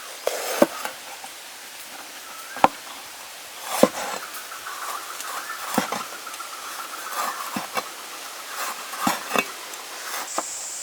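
Scattered light knocks and clicks, about eight in all and irregularly spaced, over a steady background hiss.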